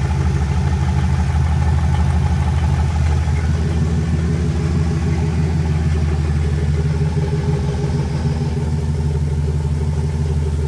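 Turbocharged Chevrolet Camaro engine idling steadily, warming up after a cold start.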